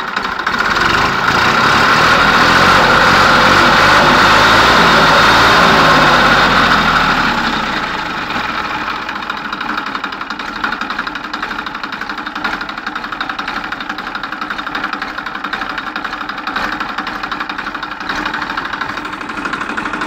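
TAFE 45 DI tractor's diesel engine running: it is revved up about a second in and held for several seconds, then falls back at about 7 s to a steady idle.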